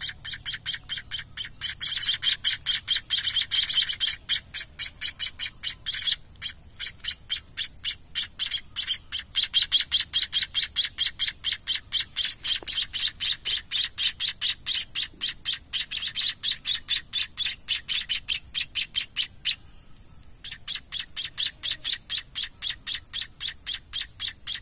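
Munia nestling begging while being hand-fed: a rapid, even run of short, high chirps, several a second, with a brief pause of about a second near the end.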